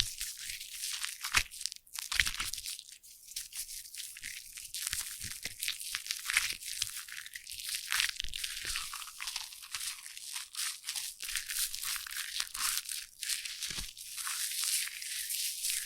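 Foam crackling close up: a dense, continuous fizz of tiny bursting bubbles, with a few sharper crunchy clicks.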